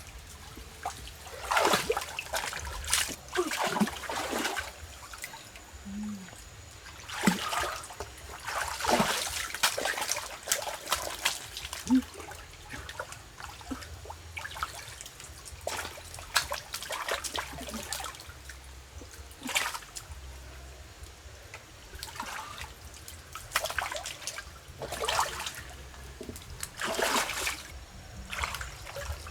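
Water splashing and dribbling in irregular bursts, one every second or two.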